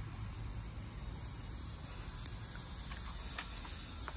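Insects chirring outdoors in a steady high-pitched chorus that grows a little louder toward the end, over a low rumble.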